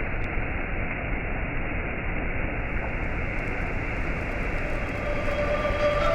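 Steady rushing noise with no clear pitch, holding an even level. Faint held musical tones come in near the end.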